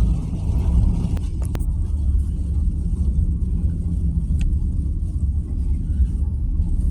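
Steady low rumble of a car's engine and tyres on a snow-covered road, heard from inside the cabin, with a few light clicks in the first half.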